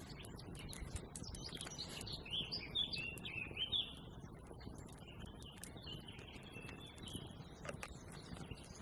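A songbird singing outdoors: a quick run of high chirps and warbles for about two and a half seconds, then fainter calls, with scattered faint clicks underneath.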